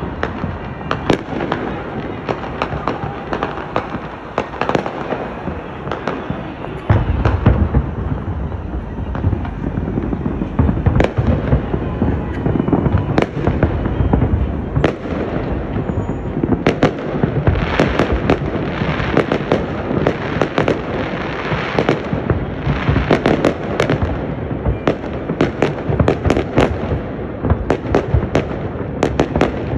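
Fireworks display: a dense, continuous string of bangs and crackles, with heavier low booms from about seven seconds in.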